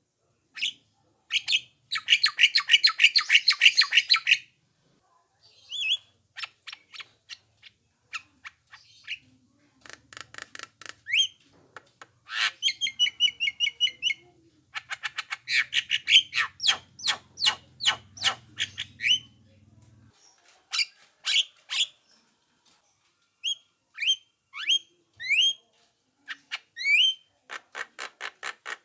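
Javan myna (jalak kebo) calling: rapid harsh rattling bursts and clicking notes, then short rising whistled notes in the later part.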